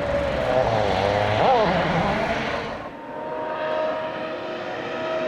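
Rally car engine at full throttle, its pitch rising and falling with the revs and gear changes. About three seconds in it gives way to a quieter, steady drone held at one pitch.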